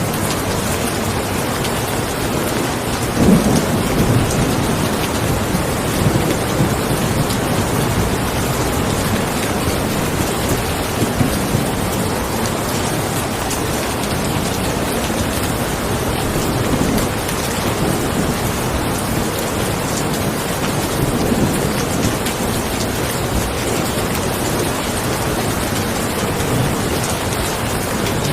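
Steady rain falling, with low rolls of thunder rumbling underneath, the strongest about three seconds in and fainter ones every few seconds after.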